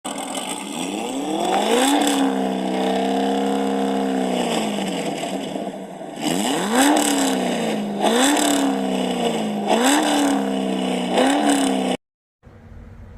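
Car engine revving: one rev held for a couple of seconds, then four quick throttle blips. It cuts off suddenly near the end.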